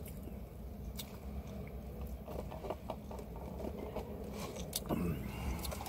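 A person chewing food with small wet mouth clicks, over a low steady hum.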